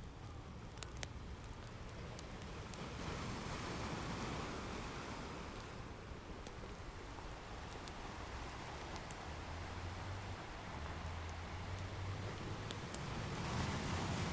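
Ocean waves washing in, swelling twice, with the scattered crackles and pops of a wood fire over them.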